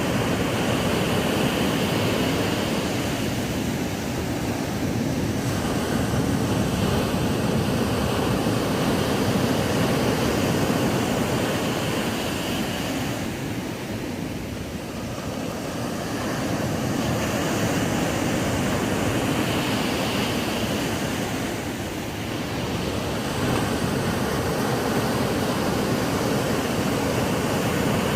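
Ocean waves breaking on a sandy beach: a continuous rush of surf that swells and eases, dipping briefly about halfway through and again later.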